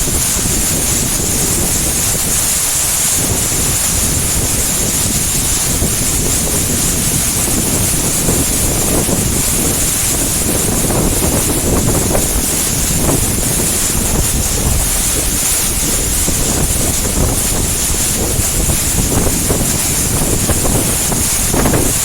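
Strong wind blowing across the microphone with heavy rain and sea surf: a loud, steady rush of noise with a high hiss on top.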